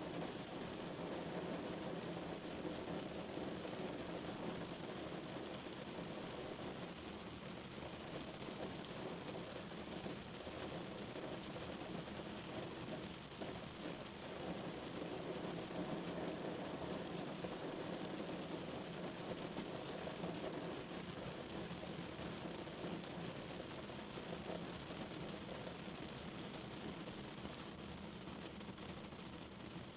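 Steady rain pattering on a car.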